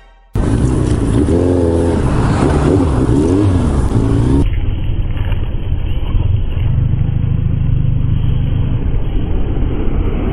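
Suzuki GSX1300R Hayabusa's engine at low speed, the revs rising and falling for the first few seconds, then settling into a steady low drone. The sound turns suddenly duller about four and a half seconds in.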